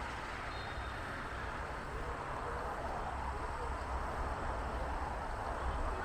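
Steady outdoor ambience at a youth football match: a wash of distant children's and spectators' voices and shouts over a low rumble.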